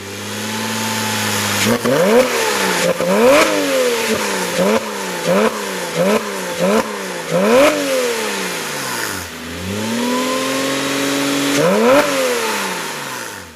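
Porsche 987 Cayman S flat-six engine heard through an A.W.E. Tuning stainless cat-back exhaust, idling briefly and then revved in about eight quick blips. It falls back toward idle, is held at a higher rev for a moment, and gets one last sharp rev near the end.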